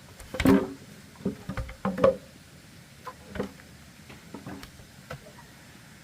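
A run of irregular hollow knocks and clacks of bamboo poles being handled and struck, each with a short ringing tone. The loudest come a little under a second in and around two seconds in, with lighter taps later.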